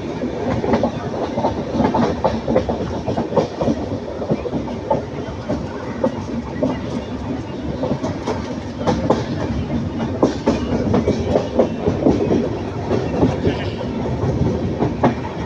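Passenger train running, heard from on board: a steady rumble with the wheels clattering irregularly over rail joints.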